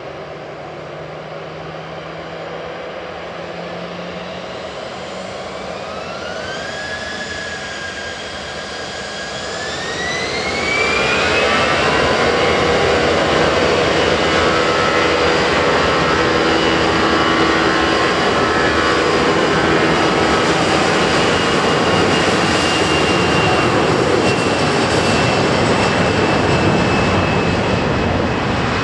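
CFM56-5A1 turbofan engines of an Airbus A320-200 spooling up for take-off: a whine climbs in pitch over about five seconds in the first half. The engines then settle at take-off thrust, running loud and steady with a high whine on top.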